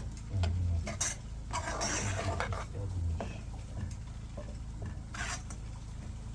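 Irregular clinks, knocks and short scrapes of metal pots and utensils being handled, with a few dull low thuds.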